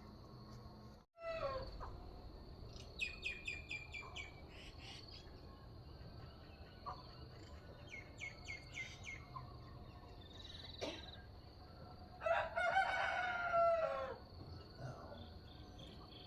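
A rooster crows once near the end, a long call of about two seconds and the loudest sound. Before it, small birds chirp in two quick trills of rapidly repeated notes. A steady high insect drone runs underneath.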